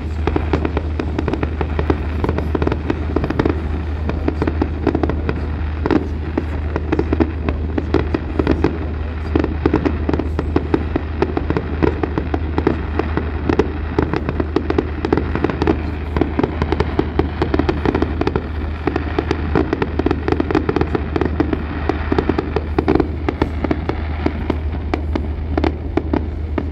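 Fireworks display: a dense, unbroken run of rapid bangs and crackles over a steady low hum.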